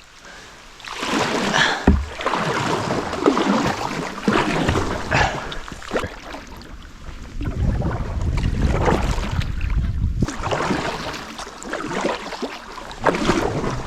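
Sit-on-top kayak paddle strokes splashing and dripping in river water, one stroke every second or two, with a low rumble for a couple of seconds in the middle.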